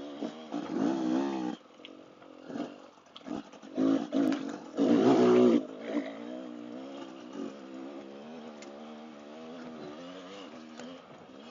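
Dirt-bike engine of a dual-sport motorcycle revving on and off the throttle while riding a trail, its pitch rising and falling. It revs up hard twice, about a second in and around five seconds in, then runs steadier and quieter.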